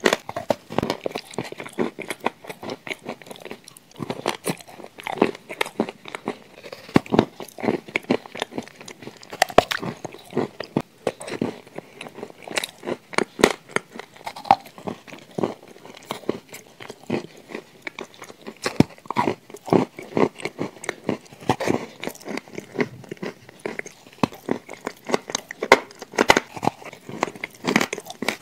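Shortbread cookie being bitten and chewed close to a clip-on microphone: soft crunches and crumbly mouth sounds, many small irregular clicks throughout.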